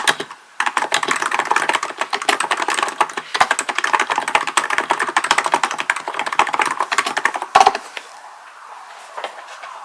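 Hansung GK898B electro-capacitive keyboard being typed on quickly, a dense run of keystrokes. One louder key strike comes just before the typing stops about eight seconds in.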